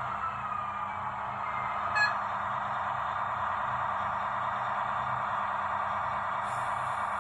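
H0-scale model train running: a steady whirr from the locomotive's motor and its wheels on the track, with a single sharp click about two seconds in.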